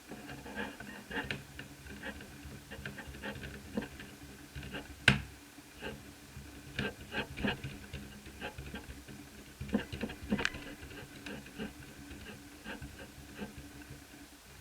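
Hands and tools working on a laptop's parts: irregular small clicks and taps, with one sharper click about five seconds in, over a faint steady hum.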